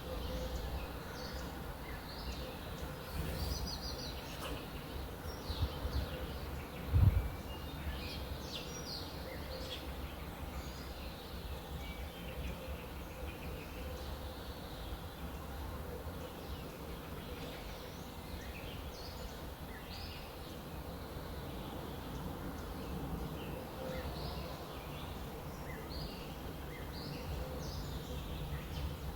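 Small birds chirping and calling in short, scattered notes over a steady low outdoor rumble, with one brief low thump about seven seconds in.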